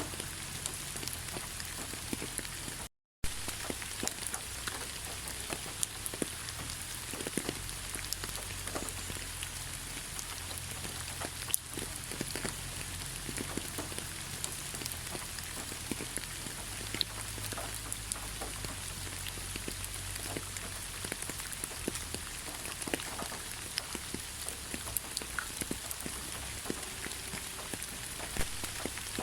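Steady rain falling, an even hiss dotted with many small drop ticks over a low rumble. The sound cuts out completely for a fraction of a second about three seconds in.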